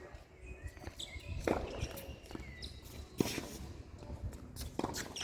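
Footsteps and shoe scuffs on a tennis court, with several sharp knocks from ball or racket about a second and a half apart, and brief high squeaks.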